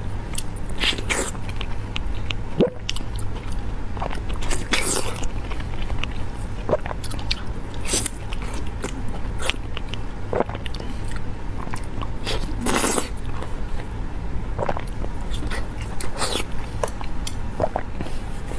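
Close-miked mouth sounds of a person biting and chewing a soft, moist orange-fleshed food: wet smacks and clicks, with a louder bite or slurp every few seconds, over a steady low hum.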